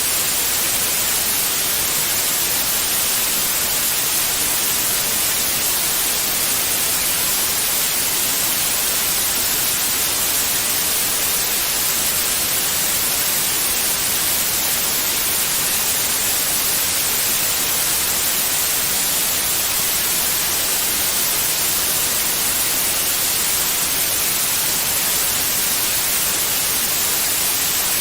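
Steady white noise: an even, unchanging hiss, brightest in the treble, of the kind played to soothe newborn babies.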